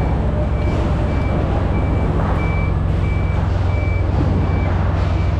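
A vehicle's reversing alarm beeping steadily, about one high single-tone beep every 0.6 seconds, over the steady low hum of a running engine.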